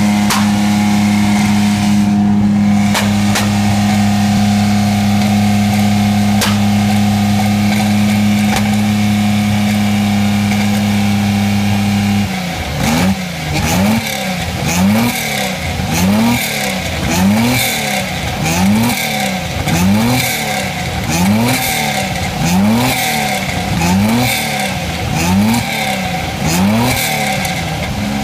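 Lamborghini Miura's V12 engine running at a steady speed, then, about twelve seconds in, blipped hard over and over, each rev climbing and dropping back about one and a half times a second, with sharp pops from the exhaust among the revs.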